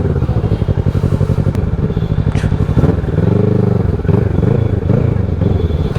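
Motorcycle engine running at low speed in slow traffic, its pitch rising and falling once about three seconds in as the throttle is blipped.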